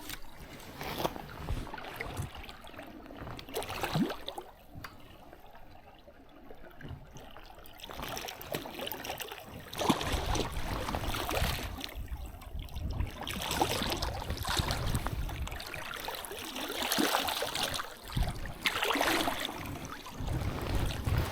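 Shallow stream water running and splashing, with irregular crackling and sloshing.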